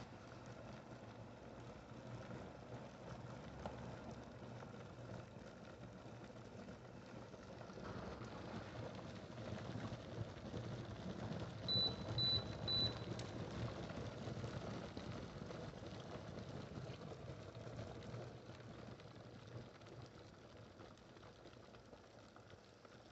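Electric glass kettle heating water, a low rumble that grows louder, then three short high beeps from the kettle. After the beeps the rumble slowly fades away.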